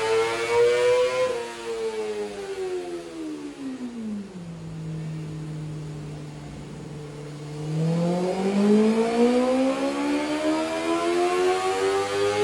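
BMW S1000RR's inline-four engine: its note winds down smoothly to a low steady drone, holds there for about three seconds, then climbs again steadily as the revs build back up.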